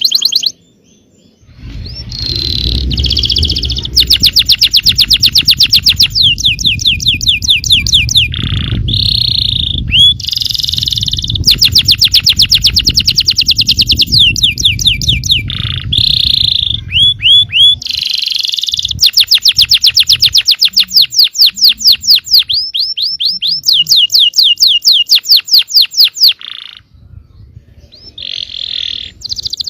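Yellow canary singing loud, fast rolling trills: long runs of rapidly repeated notes alternating with short whistled phrases, broken by brief pauses.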